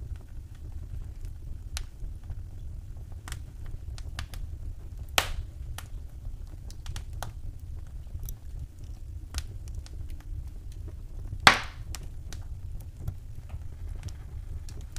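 Wood fire crackling in a fireplace: scattered small clicks and snaps over a steady low rumble. There is a louder pop about a third of the way through and the loudest pop about three quarters of the way through.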